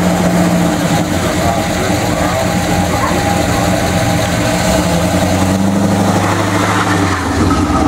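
Pontiac Firebird Trans Am's 455 V8 engine idling steadily in a line of cars, with the engine note shifting about seven seconds in.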